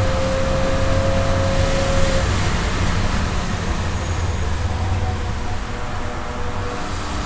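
BMW 325i's straight-six engine heard from inside the cabin at around 4,000 to 4,500 rpm, under a broad hiss of tyre and road noise on a wet track. The revs and the level ease slightly as the car slows.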